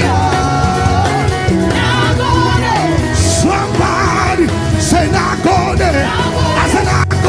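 Live African gospel praise music: a band with a prominent bass line playing while a voice sings over it.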